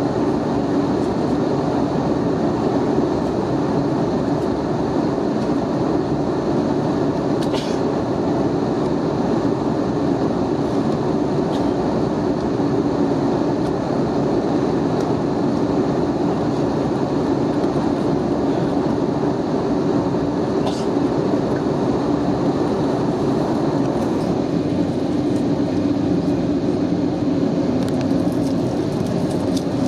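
Steady cabin noise inside an Airbus A320neo in flight: the rush of airflow and engine noise as an even rumble, with a couple of faint clicks.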